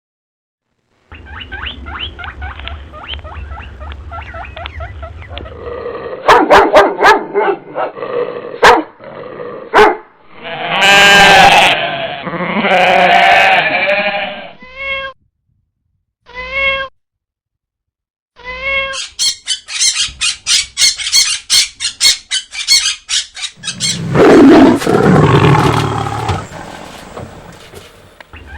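A string of different animal calls and noises cut one after another, with brief silent gaps between clips: loud calls with a clear pitch, short repeated calls, a run of sharp clicks and fast chattering pulses.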